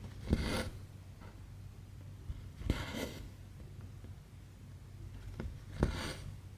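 Embroidery thread drawn through cross-stitch fabric, a short rasping swish three times, each starting with a faint click as the needle pierces the cloth.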